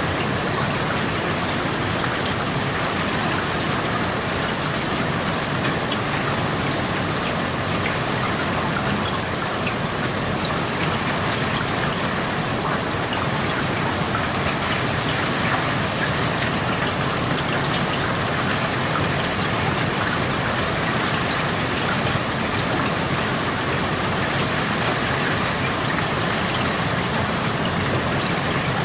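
Steady rain falling outside an open window, an even hiss with the patter of drops on surfaces.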